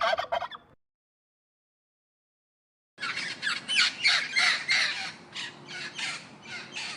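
A turkey's gobble cuts off in the first second. After a pause of about two seconds, a bird gives a rapid run of about a dozen harsh squawking calls, about three a second.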